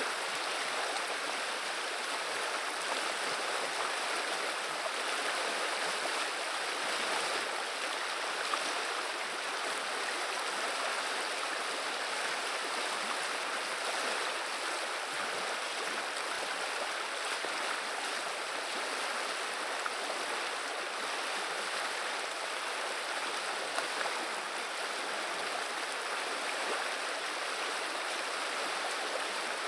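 River water flowing and babbling steadily over shallows, with a few small splashes and gurgles.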